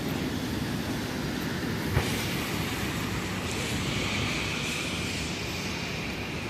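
New York City subway train running on the elevated track with a steady rumble. A sharp knock comes about two seconds in, followed by a high steady tone that lasts for the rest of the sound.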